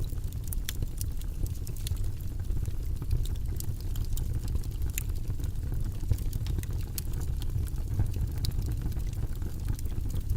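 Steady low-pitched rushing noise from a white-noise ambience track, with faint scattered clicks and ticks over it.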